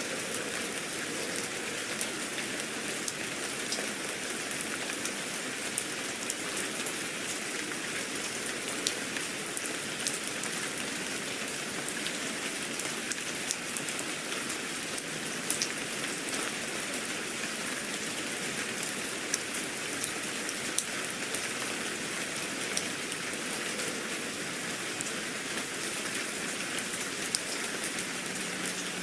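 Steady rain falling on a surface, a constant hiss with many small drops ticking through it.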